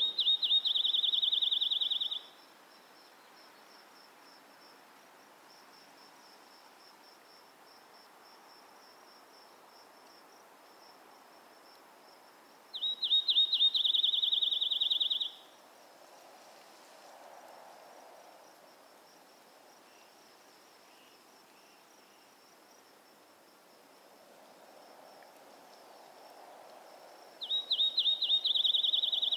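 Crickets chirring: a faint, steady high trill runs throughout, and three times a loud, fast-pulsed trill at one high pitch sounds for about two seconds, at the start, about thirteen seconds in and near the end.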